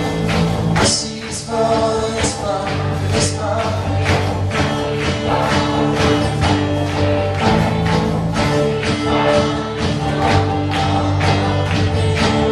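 Live worship band playing a song with a steady drum beat, voices singing along.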